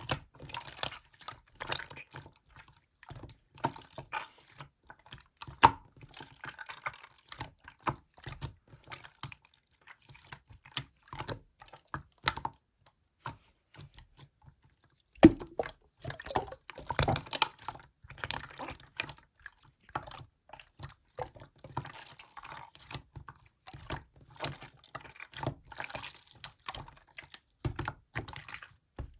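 Slime being squeezed, pressed and poked by hand, making irregular wet clicks, crackles and squelches, with a quieter pause about halfway through.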